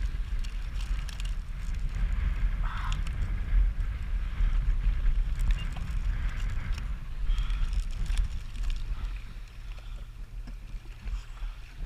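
Wind buffeting a GoPro microphone on a jet ski on open water, a heavy uneven rumble. A low steady hum comes in about eight seconds in as the wind eases.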